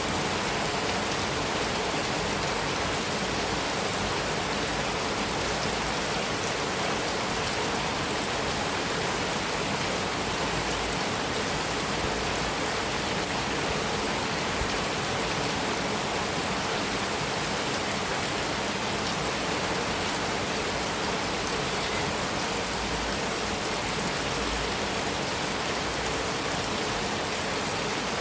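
Heavy rain falling steadily on a metal roof, a dense even patter with no breaks.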